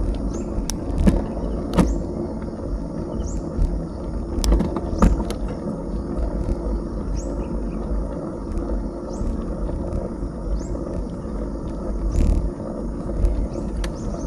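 Steady rumble of wind and tyre noise on an action camera while riding a bicycle along a backroad, with a few sharp clicks and knocks from the bike going over bumps. Short high chirps come every second or two.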